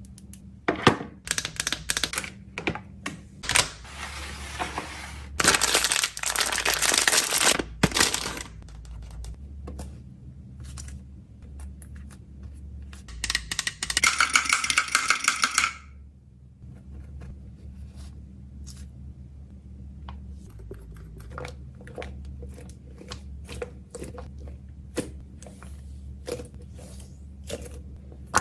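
Plastic packaging being handled: bursts of crinkling and tearing, one with a brief squeal near the middle, then a run of small sharp clicks and taps as small plastic items are set down and packed.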